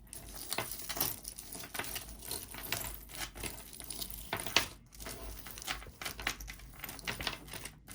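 A tangled jewelry necklace being worked loose by hand: irregular small metallic clinks and rustles as the chain and pieces are handled.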